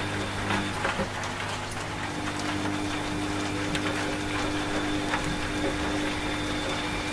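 Washing machine running with a steady motor hum, its tone shifting slightly about a second in, together with rain: a constant hiss with scattered drop ticks.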